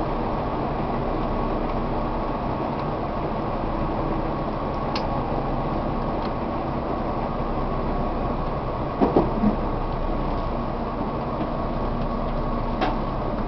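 Tobu 1800 series electric train heard from inside a passenger car while running: a steady rumble, with a few sharp clicks and a louder pair of knocks about two-thirds of the way through.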